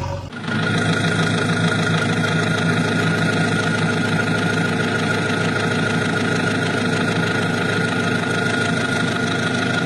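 A motor vehicle engine idling steadily. It starts abruptly just after the beginning and cuts off sharply near the end.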